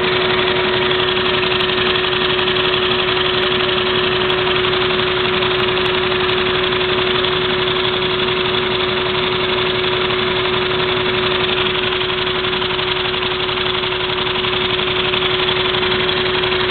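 Vacuum cleaner running steadily with a constant motor whine and rushing air, drawing suction through a Lego vacuum-powered engine that spins very fast with a rapid, even clatter.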